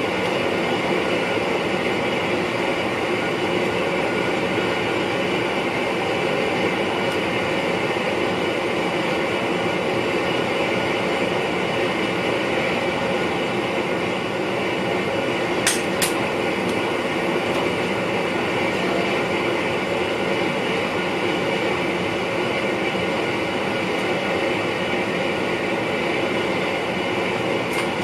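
Steady running noise heard inside the cab of an NS VIRM double-deck electric train, with two sharp clicks close together about halfway through.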